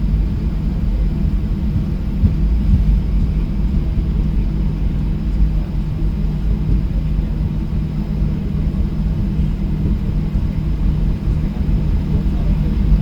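Boeing 737-800's CFM56 jet engines heard from inside the passenger cabin: a steady low rumble with an even hum.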